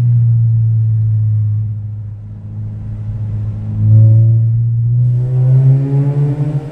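Mazda 6 exhaust with the rear silencer deleted, droning deep and loud under blips of the throttle. The revs sag about two seconds in, jump briefly around four seconds, then climb again near the end.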